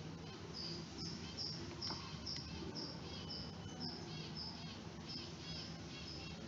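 A small bird chirping in the background: a steady run of short, high chirps, about two or three a second, over a faint low hum.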